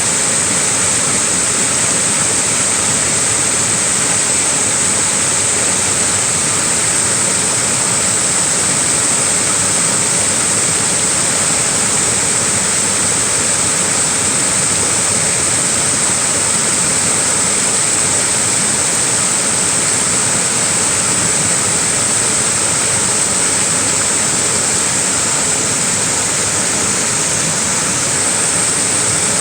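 Small waterfall rushing steadily, an even wash of falling water with no breaks or changes.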